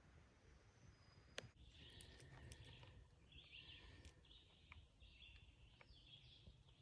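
Faint woodland quiet with a small bird singing a string of short, high chirping phrases, and a single click about a second and a half in.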